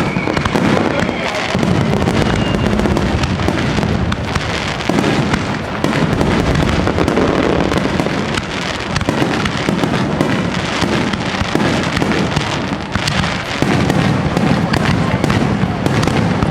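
Fireworks going off without a break: a dense run of crackles and pops.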